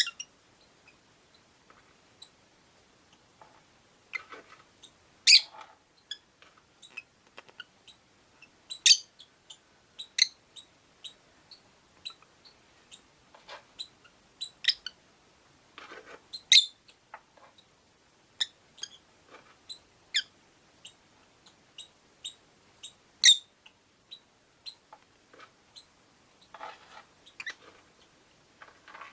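Rosy-faced lovebirds chirping: short, sharp, high-pitched chirps scattered irregularly, about a dozen much louder than the rest, with a few softer raspy calls in between.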